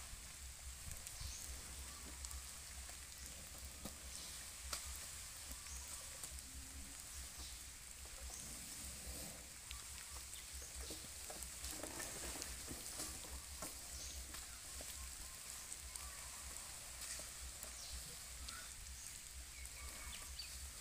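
Faint, steady hiss of light rain falling, with scattered small drip ticks.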